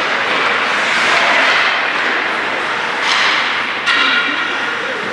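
Steady din of a crowd in a large indoor hall during a game, with a sharp smack about four seconds in followed by a short high-pitched tone.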